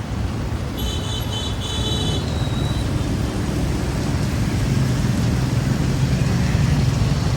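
Road traffic running past, with engines rumbling that grow a little louder in the second half. About a second in, a high-pitched tone sounds for about two seconds with short breaks.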